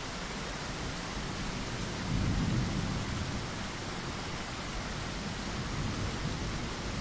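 Steady rain falling, an even hiss, with a brief low rumble swelling about two seconds in.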